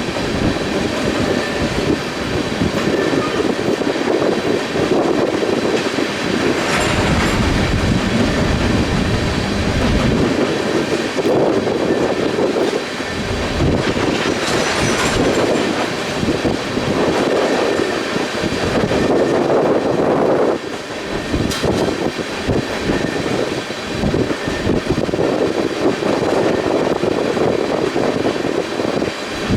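Freight train rolling past, its cars clattering over the rail joints in a steady clickety-clack, with gusty wind buffeting the microphone.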